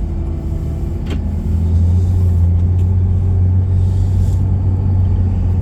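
Car engine and road rumble heard from inside the cabin while driving, a steady low drone that grows louder about a second and a half in. A faint click about a second in.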